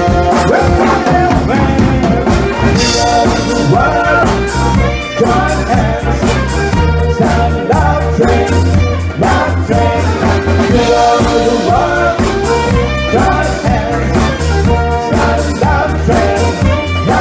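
A live party band playing upbeat soul-funk music, with a steady bass and drum beat under a melodic lead.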